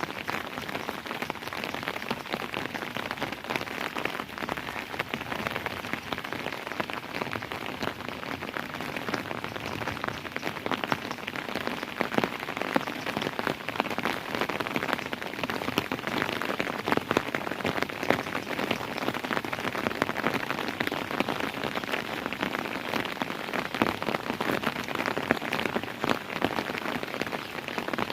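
Steady rain falling on a surface, a dense patter of many raindrops.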